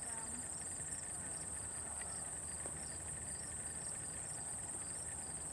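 Insects, crickets by the sound, trilling steadily and high, with a second chirp repeating a few times a second, over a faint low rumble.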